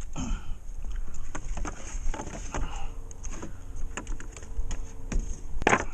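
Drywall work noises: a run of light knocks, taps and scrapes from tools and sheetrock being handled, with one louder knock near the end, over a steady low hum.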